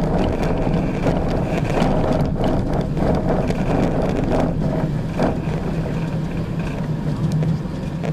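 Snowdon Mountain Railway rack-and-pinion train climbing on the move, heard from on board: a steady low drone of the running train, with frequent clicks and rattles from the wheels and rack and a high whine that comes and goes.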